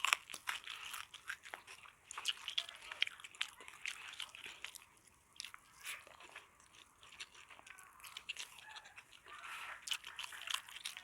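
Close-miked eating: a person biting and chewing crunchy food, with irregular crisp crunches and wet mouth clicks.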